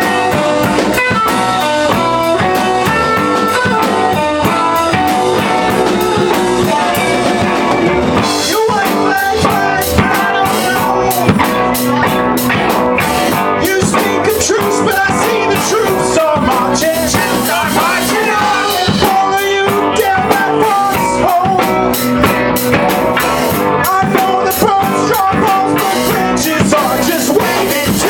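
A live rock band playing electric guitar over a drum kit. About eight seconds in, the cymbals and drums come in harder and the music fills out.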